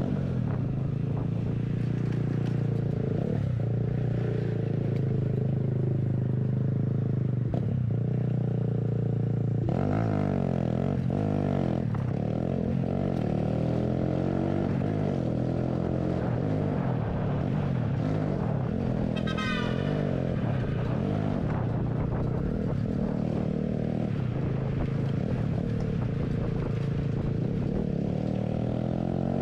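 Motorcycle engine running while riding. Its pitch holds steady for the first ten seconds, then rises and falls with the throttle. A brief high warbling sound comes about two-thirds of the way through.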